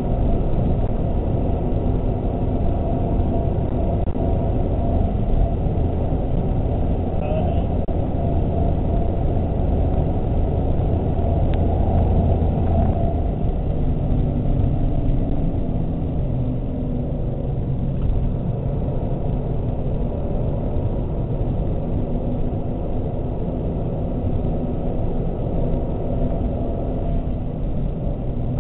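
Inside the cabin of a Mazda 3 MPS at track speed: its turbocharged 2.3-litre four-cylinder engine runs under load over a steady rumble of road noise, the engine note rising and dropping a few times with throttle and gear changes.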